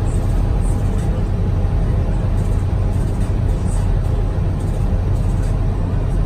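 Porsche Cayenne's 3.2-litre V6 pulling hard at high speed during a full-throttle run toward 180 km/h. A steady low drone of engine, tyres and wind runs throughout.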